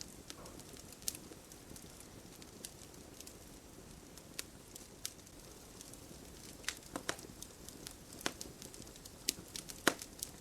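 Campfire crackling: a low steady rustle of burning wood with scattered sharp pops and snaps, coming more often in the second half, the loudest near the end.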